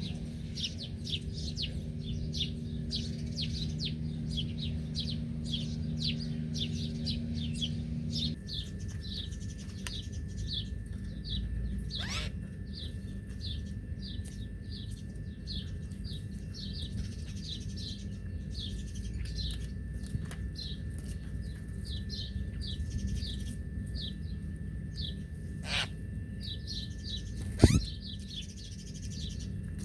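Small birds chirping rapidly in a continuous chorus of short high chirps, several a second, over a low rumble. A sharp loud click sounds near the end.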